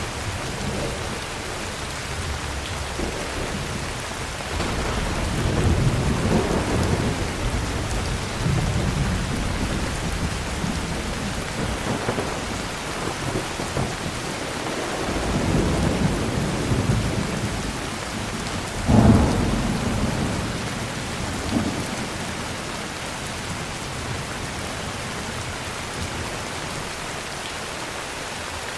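Heavy rain falling steadily with thunder: long low rumbles about five and fifteen seconds in, and a sharper, louder clap about nineteen seconds in, after which the thunder dies away and only the rain remains.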